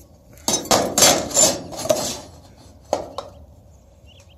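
Scraping and metallic clatter of a speed square and pencil on sheet metal as a line is drawn, a few loud scratchy strokes, then two sharp metal clicks about three seconds in.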